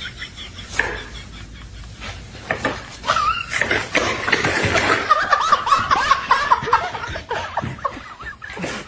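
Snickering laughter, faint at first, then louder and continuous from about three seconds in, with quick wavering giggles.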